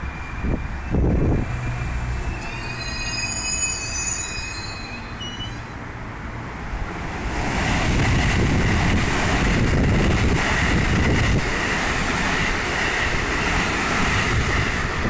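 JR West 207 series electric commuter train pulling in with high whining tones as it slows. About halfway through, another train starts running past on the far track with a loud, steady rush of wheels on rail.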